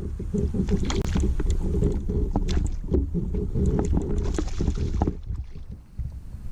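Kayak knocking and shifting on the water: a dense low rumble with many irregular knocks and splashes, easing off about five seconds in.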